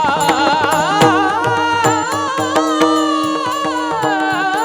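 Marathi kirtan music: a singer holds one long, wavering, ornamented note over a steady drone, with a regular beat of percussion strokes.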